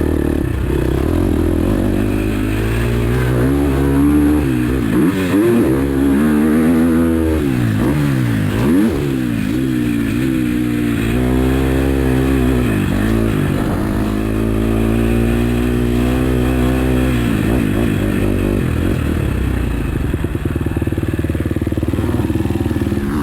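A KTM 250 SX-F four-stroke single-cylinder motocross engine being ridden hard, its pitch rising and falling repeatedly as the throttle opens and closes. It settles into a steadier run in the second half.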